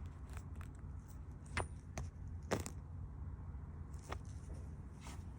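A few faint, scattered clicks and light taps from repair tools and a compound container being handled, over a low steady hum.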